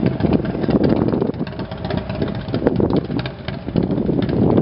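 Motorcycle engine running.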